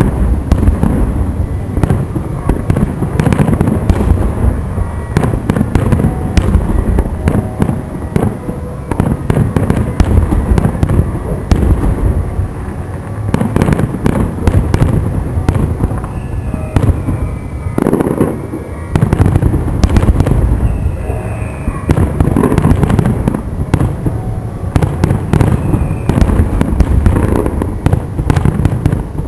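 A fireworks display: aerial shells burst in a rapid, continuous barrage of bangs and crackling. A few faint falling whistles come in the second half.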